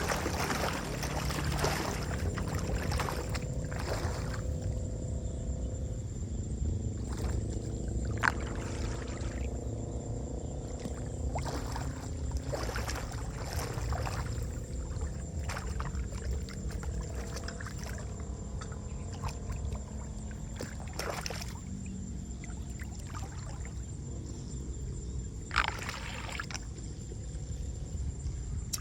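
A machine's engine runs steadily with a low, even drone, and a few sharp knocks break in now and then.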